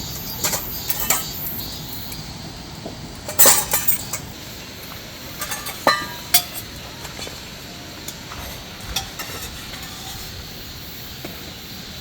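Scattered light clinks and knocks, the loudest about three and a half seconds in and again around six seconds, over a steady background noise.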